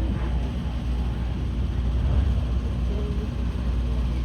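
Joby S4 electric tilt-rotor aircraft flying past in cruise, its six electric motors and propellers giving a steady low hum with a few fainter steady tones above it.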